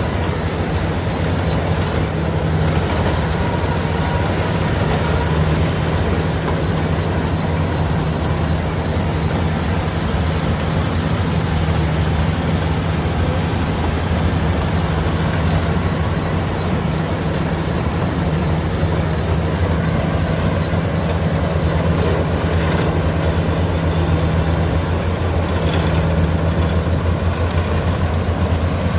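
LOVOL AF88 combine harvester running steadily: a constant low engine drone with a dense haze of machinery noise over it.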